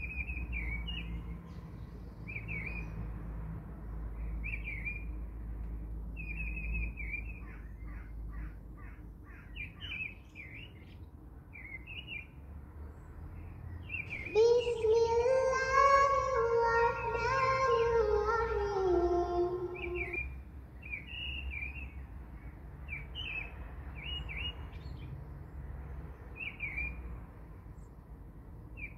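Birds chirping in short, repeated chirps, with a louder, long pitched call in the middle that lasts several seconds and slides down in pitch near its end.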